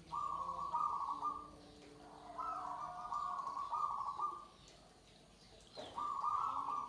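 Zebra doves (perkutut) cooing in three phrases, each one to two seconds long, with a fainter, lower coo under the first two. There is a sharp click just before the third phrase.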